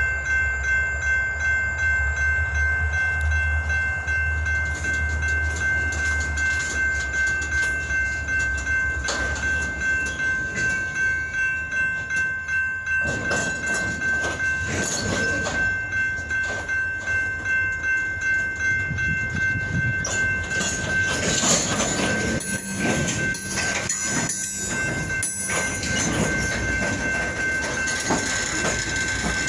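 Freight train with EMD GP diesel locomotives moving during switching: a low engine rumble in the first half, then rail cars clanking and wheels squealing from about halfway. A steady ringing tone and a regular pulse about twice a second run underneath.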